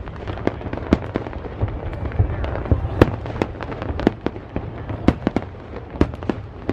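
Aerial fireworks display with shells bursting in quick, irregular succession: many sharp bangs, several a second, over a continuous low rumble.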